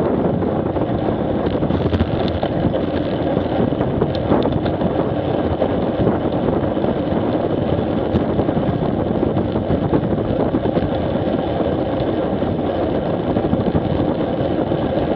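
Motorcycle engine running steadily on the move, with road and wind noise on the action camera's microphone.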